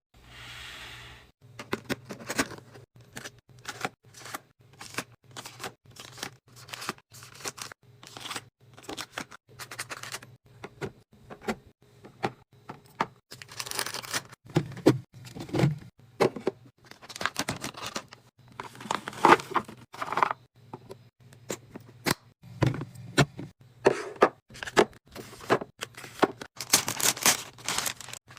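Food packaging being handled: plastic crinkling and tearing, with frequent sharp clicks and knocks as containers and items are set down.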